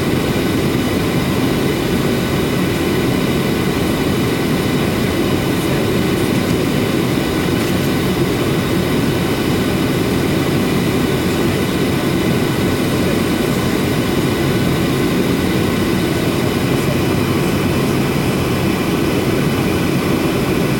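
Steady cabin noise of a Boeing 737-800 with its CFM56 jet engines running: an even rumble with a few faint high steady tones over it, unchanging throughout.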